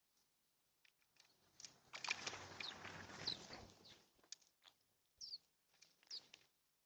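Small birds at a feeder: a faint burst of rustling about two seconds in that lasts about two seconds, then scattered light clicks and two short high chirps near the end.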